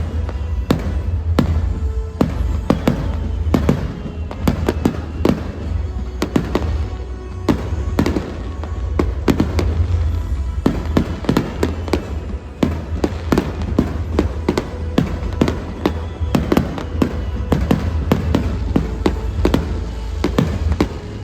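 Fireworks going off in a rapid barrage: many sharp bangs and crackles a second, overlapping, with no let-up. Music with a heavy bass plays underneath.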